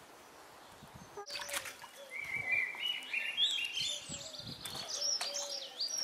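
A bird singing: a run of clear whistled notes that step up in pitch and warble higher near the end, with light splashing of water in a paddling pool.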